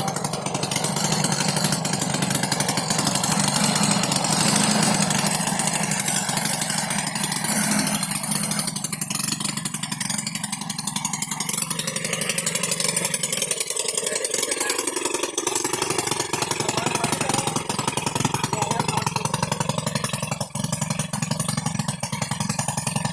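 Quad bike's small engine running with a steady, rapid buzz. About midway the pitch falls and the low end briefly fades before it picks back up.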